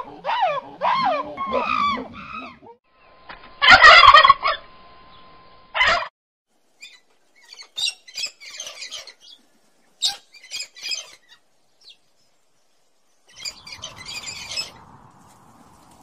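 A run of animal and bird calls, one after another. Wavering pitched calls come first, then a loud harsh screech about four seconds in, and after that scattered short chirps and clicks.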